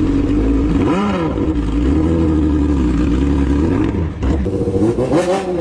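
Superbike engine in a custom golf cart running hard at steady high revs, its note wavering slightly in pitch.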